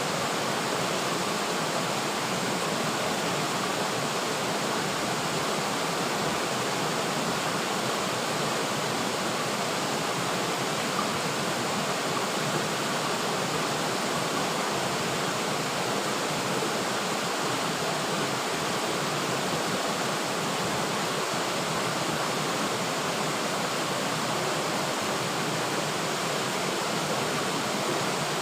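River water flowing steadily, an even rushing sound with no breaks.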